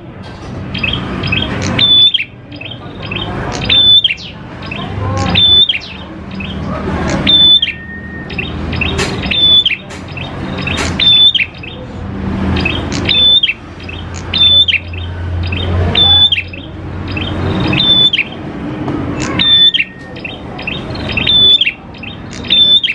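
Prinia (prenjak) singing one phrase over and over, about every two seconds. Each phrase swells louder and ends in a sharp high note.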